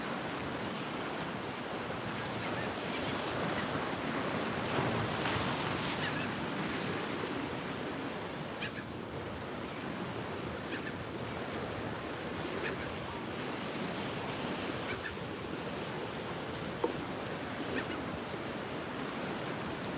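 Ocean surf washing in steadily, swelling louder about five seconds in, with some wind on the microphone.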